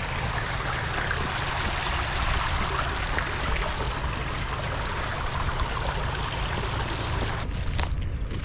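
A steady rushing noise with a low rumble underneath. Near the end it thins out and a few short knocks come through.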